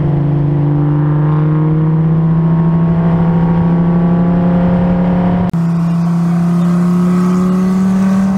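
Dodge Viper's 8.4-litre V10, with a heads/cam package, running at full throttle, its note climbing slowly and steadily as it pulls through a tall gear. There is a brief dropout about five and a half seconds in.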